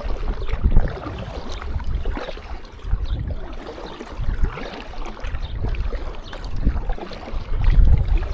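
Kayak paddle strokes and water splashing around the hull, with gusts of wind buffeting the microphone in uneven low surges.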